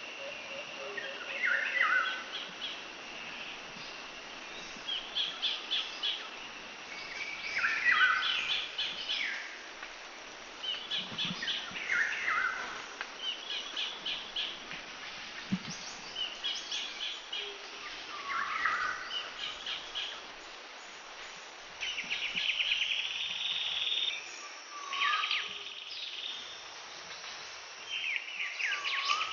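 Birds calling repeatedly: short phrases of quick high notes, each ending in a falling slur, repeated every couple of seconds over a steady outdoor hiss.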